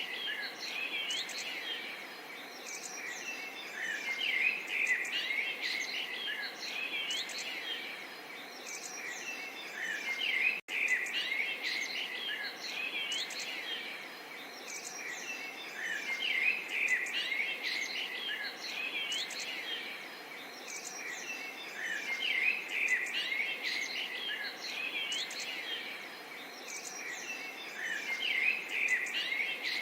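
Many small songbirds chirping and trilling over a soft steady murmur of running water. The sound drops out suddenly and briefly about ten seconds in.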